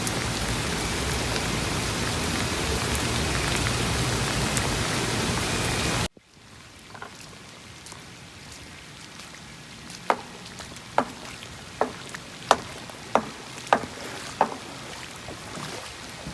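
Steady rain falling for about six seconds, then cut off abruptly. A much quieter patter of rain follows, with seven sharp taps about two-thirds of a second apart near the end.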